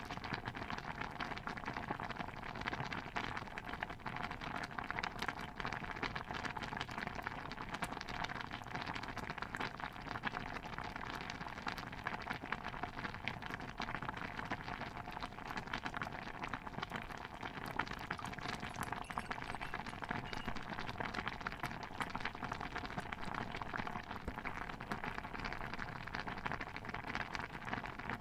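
Layered kitchen ambience soundscape: a steady, dense patter of tiny pops and crackles over a soft hiss, with no single event standing out.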